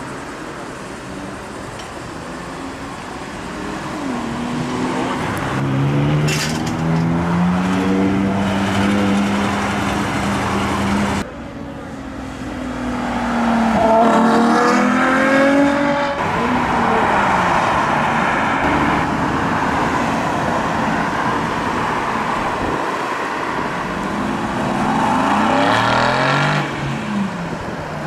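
Several sports cars pulling away one after another, each engine revving up in rising sweeps as it accelerates past. There is a sudden cut about eleven seconds in.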